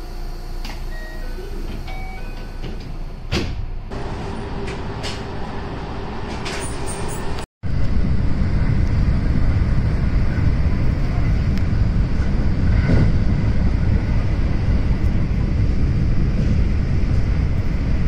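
Electric commuter train: first standing at a station, with a short run of electronic tones, a few sharp clicks and a steady hum. After a sudden break, the loud, even rumble of the train running at about 100 km/h, heard from inside the carriage, with wheel and rail noise.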